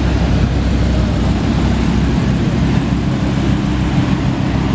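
Audi R8 sports car engine running at low revs as the car creeps past, with an Aston Martin Vantage roadster's engine idling close behind; a steady, deep engine sound.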